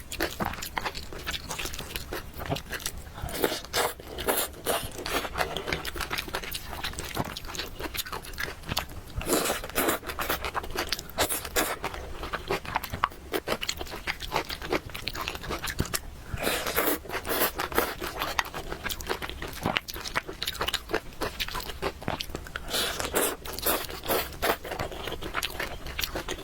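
Close-up eating sounds: a person chewing and biting food, with irregular clusters of crunching clicks.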